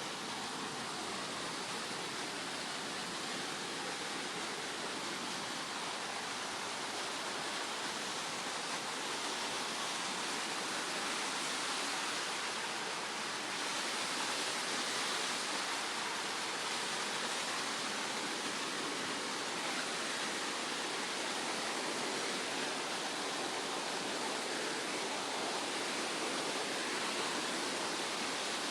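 Steady rush of water in a mountain stream with waterfalls, getting a little louder about halfway through.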